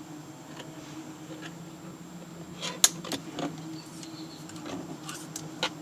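Plastic cable tie being snipped with cutters: one sharp snap about three seconds in, among a few lighter clicks of handling, over a steady low hum.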